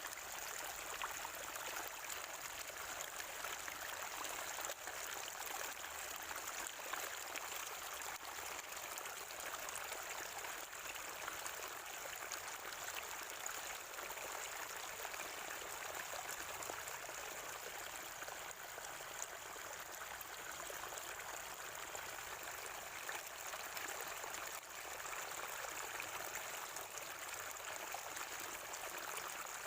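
Water from a natural spring gurgling and splashing steadily.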